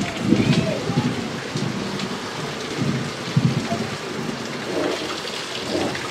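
Rain falling steadily, with irregular low rumbles every second or so.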